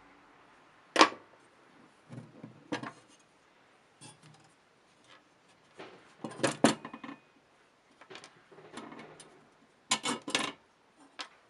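Metal parts of a vintage scale and hand tools clinking and knocking irregularly as the scale is taken apart. The sharpest knock comes about a second in, with clusters of clatter a little past the middle and near the end.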